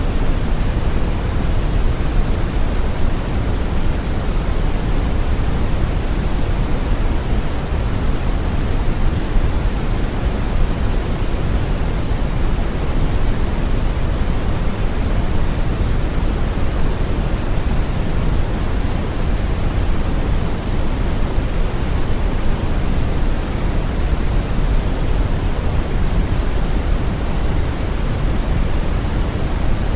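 Brown noise: a steady, deep rushing hiss with most of its energy in the low end, unchanging throughout.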